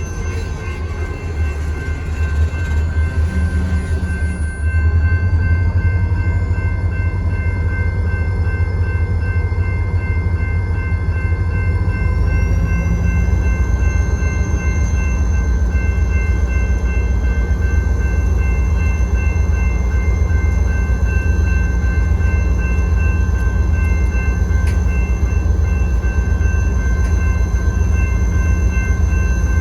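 Freight train running by with a heavy low rumble that grows louder about four seconds in. Steady high-pitched tones sound over it, and a higher whine rises partway through.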